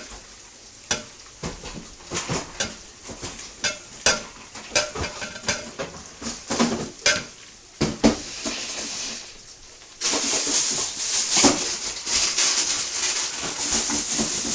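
Metal utensils knocking and clattering against pots and dishes, then about ten seconds in a steady, loud sizzle of frying starts suddenly and runs on.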